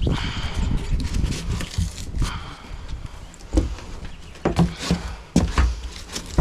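Wiring harness being ripped out of a freezer's foam insulation: irregular tearing and scraping, with several sharp knocks in the second half.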